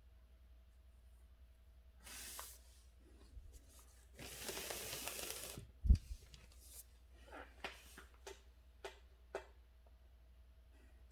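Handling sounds at a calligraphy desk. A short rustle comes about two seconds in, then a longer rustling scrape of about a second and a half, one sharp thump just before six seconds, and a scatter of light taps after it.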